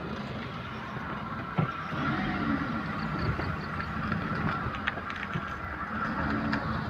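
Maruti 800's three-cylinder engine and tyres running on a slow right-hand turn, the engine note rising and falling, with no clicking from the front axle: the second-hand replacement axle is running quietly.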